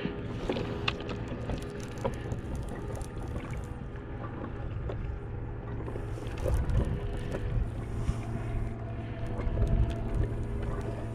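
A kayak under way at sea: water washing and splashing against the hull, with a steady hum and scattered small knocks that get louder twice in the second half.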